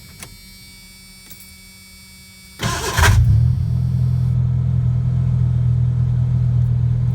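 1986 Ford Ranger starting: about two and a half seconds in, a short horrible grinding clack as the engine catches and the starter gear is thrown out of the flywheel, then the engine idling steadily. The grind is the sign of a starter sitting too far from the flywheel, which the uploader puts down to wallowed-out mounting holes on the rebuilt starter.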